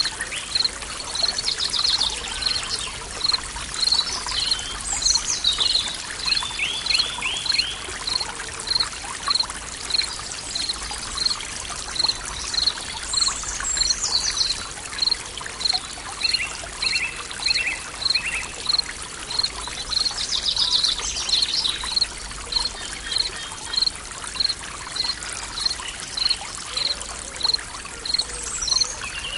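Forest ambience: a stream running steadily under birdsong, with one bird giving a short high chirp over and over, about twice a second, and other birds adding brief trills now and then.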